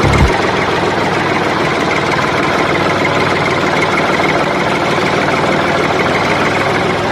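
A steady engine running sound, like a tractor engine idling, holding an even level throughout.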